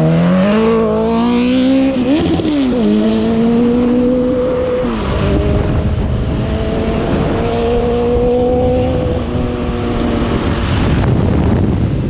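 Suzuki Hayabusa's 1300 cc inline-four motorcycle engine accelerating hard, its pitch climbing, breaking and dropping at gear changes about two seconds in and again about five seconds in, then fading as the bike pulls away. Heavy wind rush on the microphone underneath.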